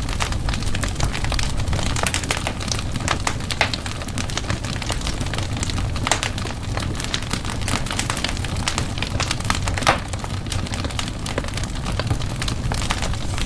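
Wood fire in a fireplace burning steadily with a low rumble, crackling and popping at irregular intervals, a few louder pops now and then.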